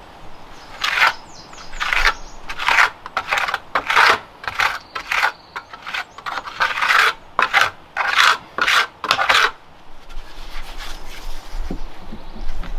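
A quick series of about a dozen rasping scrape strokes, like filing or rubbing on a hard surface, which stop near the end.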